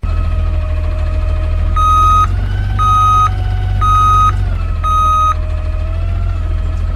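Side-loader garbage truck backing up: its reversing alarm beeps four times, about once a second, over the steady running of the truck's engine, whose note rises a little during the beeps.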